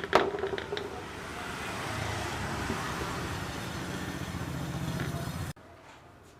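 A sharp clack, then a steady machine running noise with a low hum that cuts off abruptly about five and a half seconds in.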